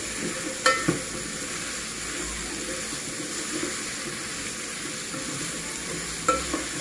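Butternut squash cubes sizzling in a pot with fried onions, garlic and ginger, with a steady hiss; a wooden spoon stirring them knocks sharply against the metal pot about a second in and again near the end.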